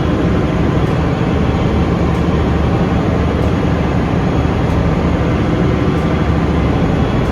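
MWM stationary gas engine running, a loud, steady machine noise strongest in the low end.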